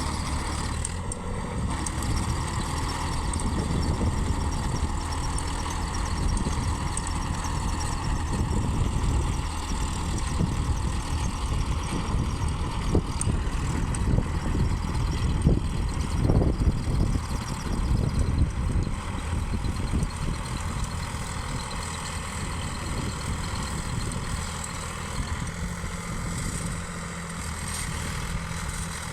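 Sonalika 745 DI tractor's diesel engine running steadily, a little louder for a few seconds about halfway through.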